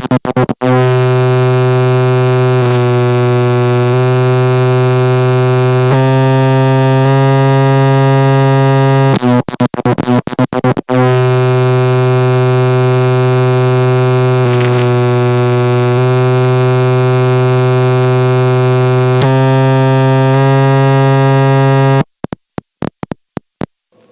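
Loud electrical buzz with many overtones in the intercom audio, from a headset or recording cable pulled halfway out of its jack. The pitch shifts in steps several times, and the buzz breaks into crackling dropouts midway and again near the end, where it cuts out.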